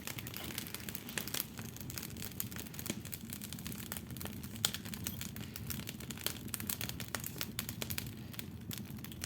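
Wood fire crackling in a fireplace: irregular sharp snaps and pops, one louder pop about four and a half seconds in. The fire is burning a freshly added thick log.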